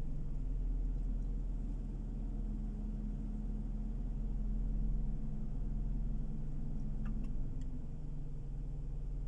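Steady low rumble of a moving car, heard inside the cabin, with a faint steady hum from about two seconds in until near the end and a couple of light ticks.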